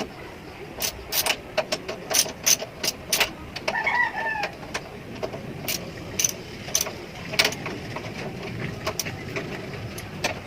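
A chicken gives a short call about four seconds in, against a run of sharp, irregular clicks and knocks.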